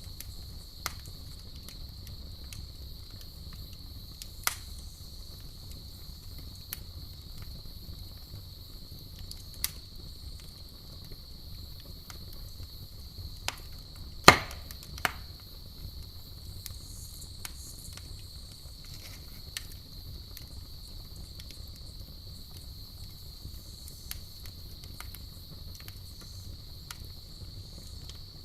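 Campfire crackling with sharp pops every second or two, one loud pop about halfway through, over a steady high chorus of crickets and a low rumble of the fire.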